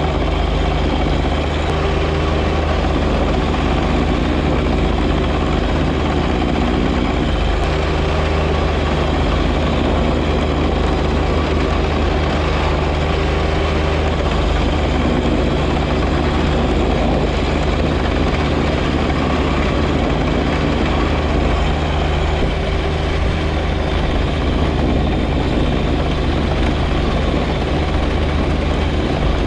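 Compact diesel tractor engine, a John Deere 1025R's three-cylinder diesel, running steadily with a constant hum and an even rush of noise over it, with no change in speed.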